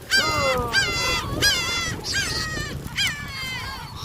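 A flock of gulls calling, many short calls overlapping, each rising sharply then falling in pitch.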